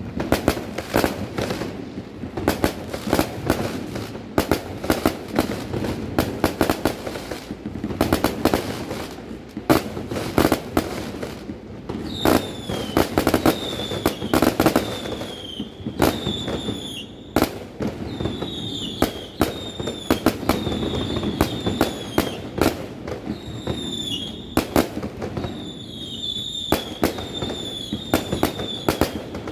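Fireworks display: a dense run of sharp bangs and crackling bursts over a continuous rumble. From about halfway through, short falling whistles repeat among the bangs.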